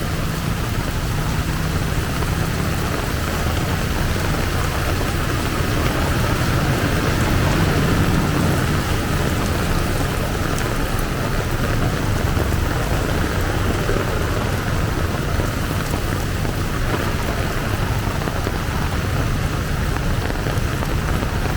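Heavy downpour: a steady, loud rush of rain with a continuous low rumble underneath.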